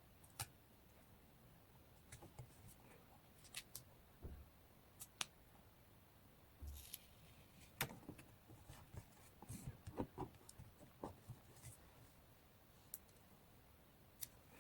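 Faint paper-crafting sounds of collaging a journal page: scattered small clicks and taps, a few soft thumps, and a brief rustle of paper about seven seconds in.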